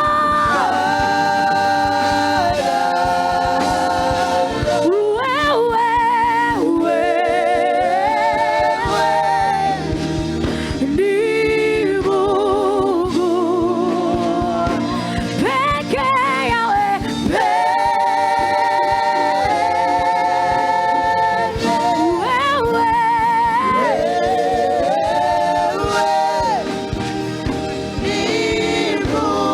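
Gospel worship song: a voice holds long notes with a wavering vibrato over instrumental accompaniment.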